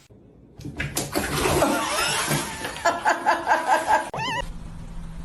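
A person laughing in a run of short bursts, about six in a row, then a brief wavering tone and a steady low hum.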